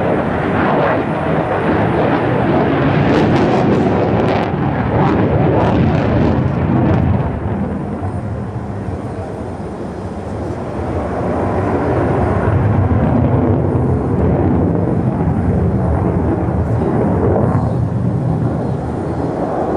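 Jet noise from an F-35A's single Pratt & Whitney F135 turbofan during a display flight: a loud, steady rumble that eases about eight seconds in, then builds again.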